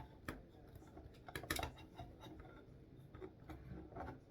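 Plastic Lego pieces being handled, with a scattering of small clicks and taps as parts and joints are pressed and moved.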